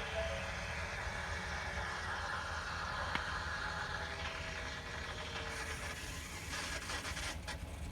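Electric fuel lift pump of a 2018 Ford F-350's 6.7L diesel running steadily with the key on, priming the new fuel filter and working air out of the fuel system. A single short click about three seconds in.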